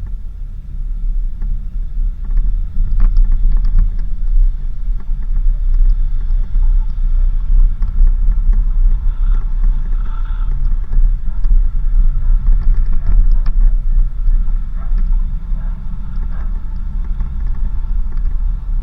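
Vehicle driving on a dirt road: a steady low rumble of engine and tyres, with small scattered knocks and rattles.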